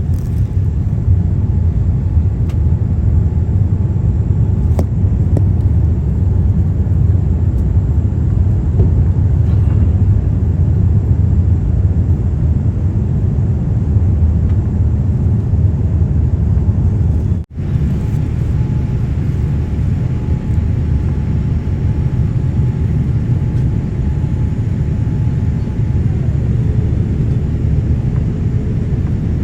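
Airliner cabin noise: the loud, steady rumble of jet engines and airflow heard from inside the passenger cabin, with a faint steady whine in the second half. It breaks off for an instant just past the middle.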